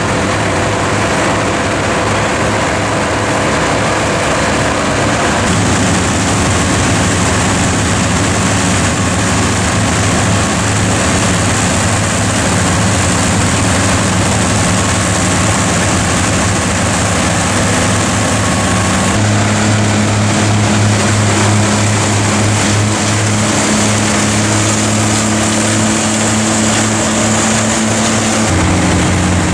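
Massey Ferguson tractor's diesel engine running steadily under load while driving a forage harvester cutting silage, with a wide rushing noise over the engine drone. The engine note shifts suddenly a few times, about 5, 19 and 28 seconds in.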